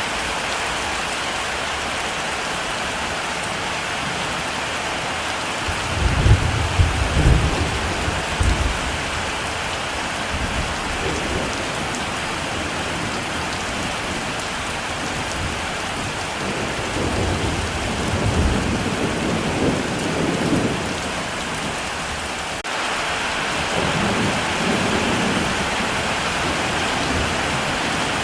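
Heavy rain falling in a steady hiss, with thunder rumbling. A loud roll of thunder comes about six seconds in, another builds and fades in the middle, and a weaker one rumbles near the end.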